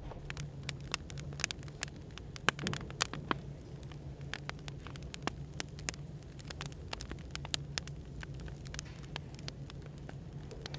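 Wood fire crackling, with many irregular sharp pops and snaps over a steady low hum of background white noise.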